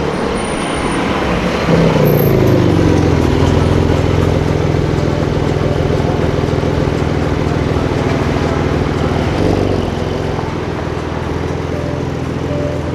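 A car's engine, loud from about two seconds in, falling in pitch and then holding a steady low drone for several seconds before easing off near ten seconds, over street traffic.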